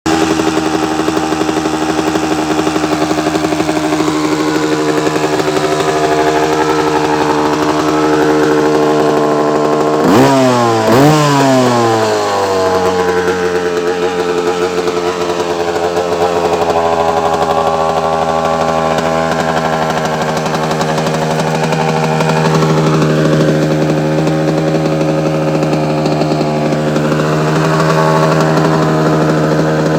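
1985 KTM 250 two-stroke motorcycle engine, type 544, idling steadily; about ten seconds in the throttle is blipped twice in quick succession, each rev rising and dropping straight back to idle.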